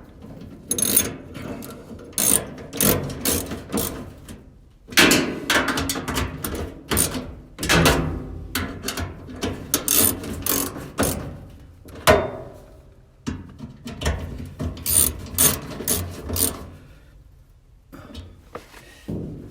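Screws being tightened into a clothes dryer's sheet-metal parts by hand, with irregular clicks, knocks and scraping of the tool and metal.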